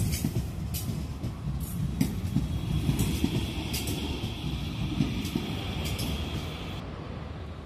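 CPTM electric commuter train running past along the platform: a low rumble of the cars with sharp clicks of the wheels over rail joints. A high steady tone sits over it from about two and a half seconds in. Near the end the high part cuts off and the rumble fades.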